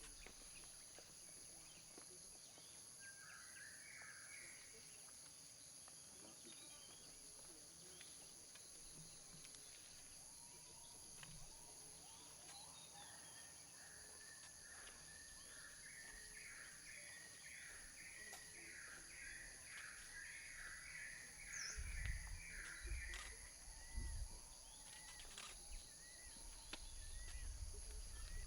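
Faint outdoor ambience of insects shrilling steadily, with a short bird call and then a long series of rapidly repeated bird notes. A few low thumps come near the end.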